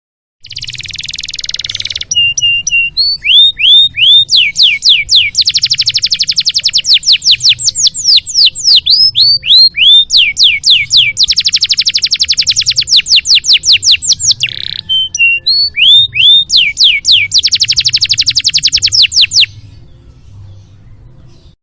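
Canary singing a long, loud song: a raspy opening note, then runs of rapid down-slurred whistles and very fast trills. The song breaks off near the end.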